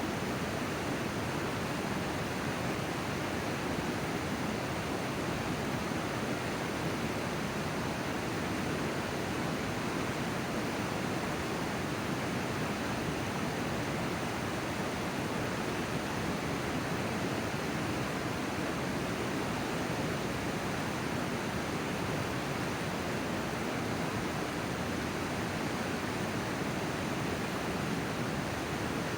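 River water rushing, a steady even noise with no change in level.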